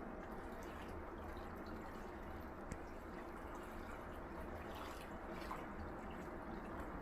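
Gentle sea waves washing steadily against a beach shore, with faint crackles of water and a single sharp tick a little under three seconds in.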